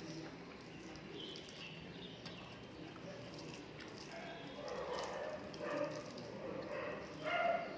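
Background animal calls: a few high bird chirps early on, then repeated pitched calls from domestic animals, such as dogs or chickens, growing louder in the second half.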